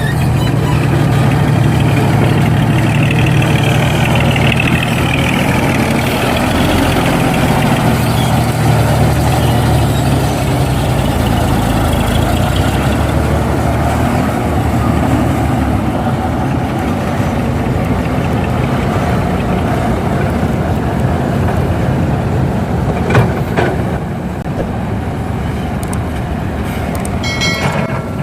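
Heavy diesel engines of an excavator and truck running steadily at a work site, with a rising whine a few seconds in. Near the end there is a single sharp knock and then a brief clatter of metallic clinks.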